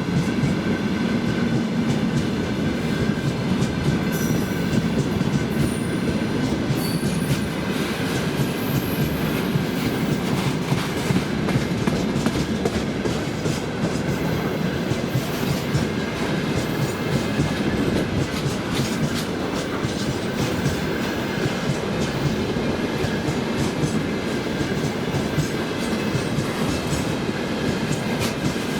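Freight train wagons rolling steadily past, wheels clattering over rail joints, with a few brief high wheel squeals now and then.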